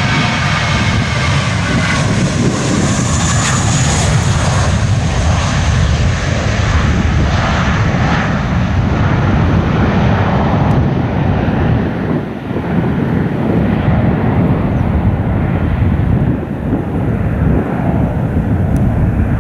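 Jet airliner taking off, engines at full thrust: a loud, deep rumble with a fan whine that fades over the first few seconds as the aircraft climbs away.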